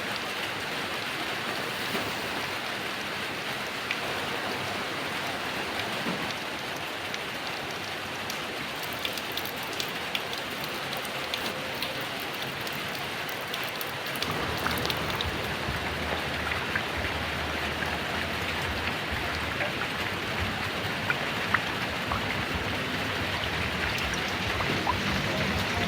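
Heavy rain falling in a steady hiss, with scattered sharper drop taps. About halfway through, a low rumble joins and the rain grows slightly louder.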